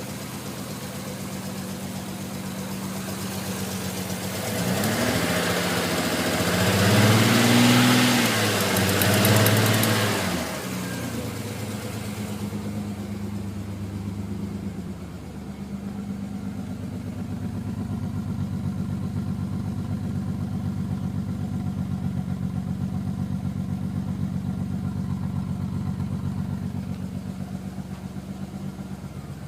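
Nissan Skyline R33 straight-six engine idling, then revved in two short blips about seven and nine seconds in, each rising and falling back to idle. A broad hiss sits over it until about twelve seconds in, after which the engine runs steadily at idle.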